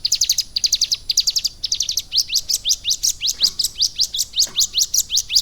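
Caged ciblek gunung singing hard: a fast run of short, high, upward-sweeping chirps. The notes come in tight bursts at first, then settle into an even series of about five rising notes a second.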